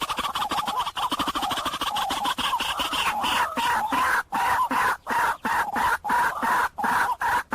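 White-breasted waterhen calling: a fast run of harsh, repeated notes that breaks into shorter phrases with brief pauses from about three seconds in.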